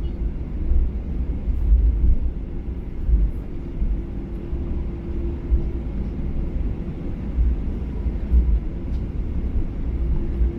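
Cabin noise inside a Boeing 737-800 on the ground, its CFM56 engines running at idle: a steady hum over a low, uneven rumble.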